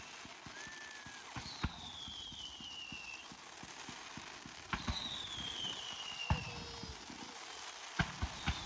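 Fireworks crackling and popping, with several sharper bangs. Three times a high whistle falls in pitch over about a second and a half.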